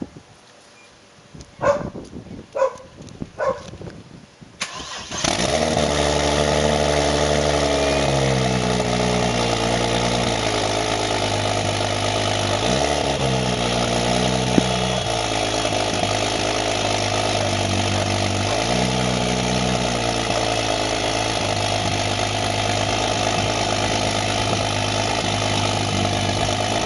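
Built turbocharged 4.0-litre inline-six of a 2006 Ford BF Falcon XR6 Turbo starting for the first time, with no exhaust fitted and no tune: a few short bursts, then about five seconds in it catches and runs loud and very rough. Its idle speed rises and dips a few times.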